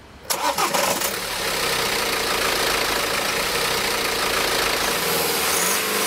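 BMW 320d four-cylinder turbodiesel engine starting about a third of a second in, with a few quick uneven firings as it catches, then settling into a steady idle.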